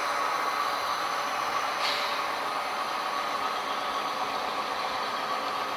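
HO scale model diesel train running along the layout track, a steady mechanical running noise with a brief higher hiss about two seconds in.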